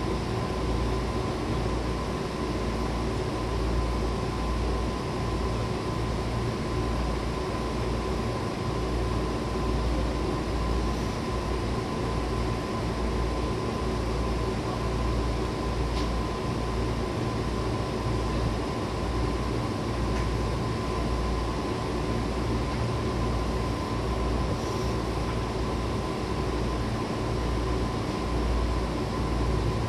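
JR 105-series electric multiple unit running at a steady pace, heard from inside the car: a continuous low rumble of wheels on rail under an even, high-pitched hum.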